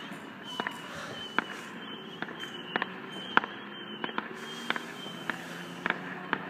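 Distant fireworks going off: a string of irregular sharp bangs and pops, roughly two a second, over a steady background hum.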